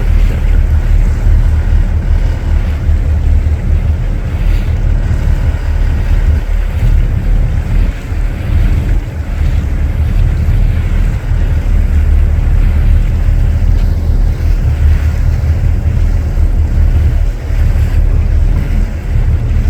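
Loud low rumble of wind buffeting the microphone and a boat running on open water, with the wash of waves underneath.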